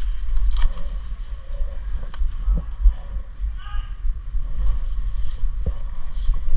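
Steady low rumble of wind or handling noise on the microphone, with faint distant voices and a few soft clicks.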